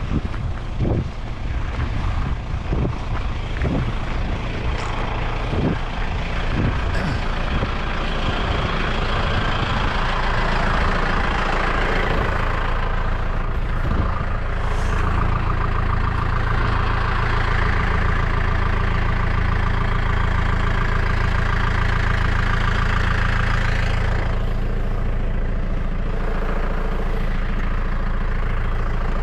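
A safety boat's outboard motor running steadily, with a few sharp knocks in the first several seconds.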